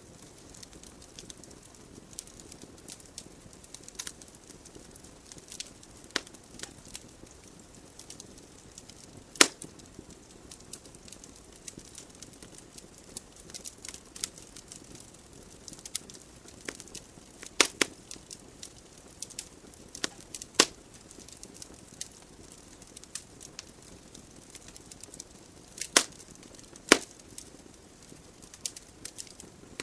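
Wood fire burning in a fireplace: a steady low hiss of flames with frequent small crackles and a handful of louder sharp pops and snaps from the burning logs.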